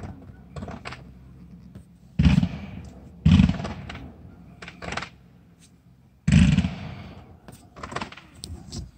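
Aerial fireworks exploding: three loud bangs, each trailing off in an echo, with smaller pops and crackles in between.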